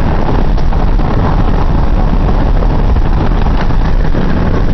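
Steady road and engine noise inside a moving car, with wind buffeting the microphone.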